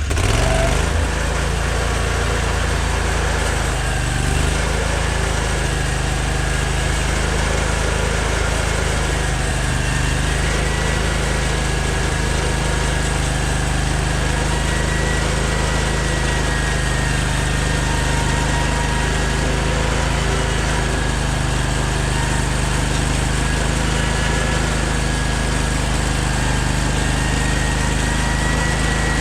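Portable sawmill's engine running steadily, with a thin high whine above it.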